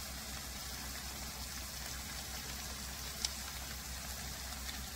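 Ground beef and squash sizzling on the hot plate of a Chefavor electric grill-griddle: a steady soft crackling hiss, with one sharp tick about three seconds in.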